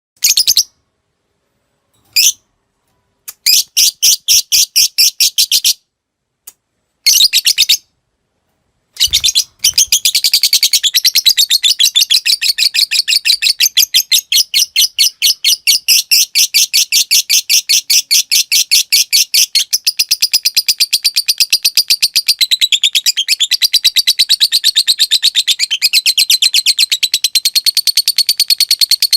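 Lovebird chattering. First come several short bursts of rapid high clicks with silent gaps between them (the 'ngetik'). Then, about nine seconds in, a long unbroken rapid chattering trill starts and runs on (the 'ngekek panjang').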